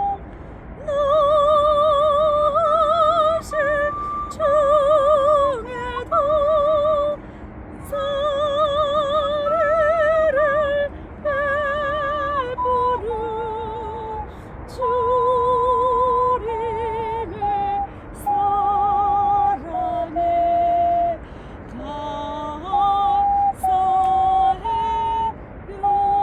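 Ocarina playing a slow hymn melody: pure, flute-like held notes with a wide vibrato, phrase after phrase with short breaths between them.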